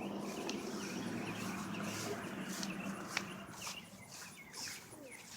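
Small birds chirping repeatedly, over a low steady hum that fades after about three seconds, with a few sharp clicks.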